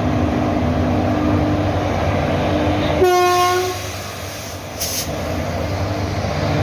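Train at a station platform: a steady running hum, then a short train horn blast about three seconds in, and a brief hiss near five seconds.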